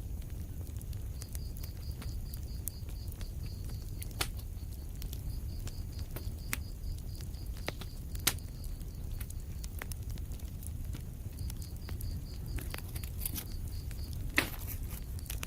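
Wood fire crackling in a fireplace: a steady low rumble of flame with scattered sharp pops and snaps, the loudest about eight seconds in and again near the end.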